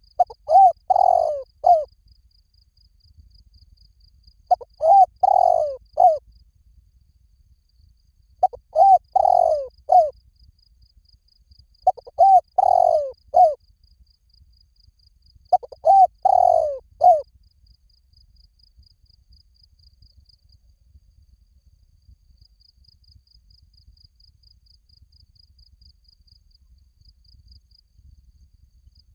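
Spotted dove cooing: five phrases of several low coos each, under two seconds long and about four seconds apart, then a pause of about ten seconds. A faint, steady, high insect trill runs beneath. It is a dove call track of the kind played to draw wild spotted doves in.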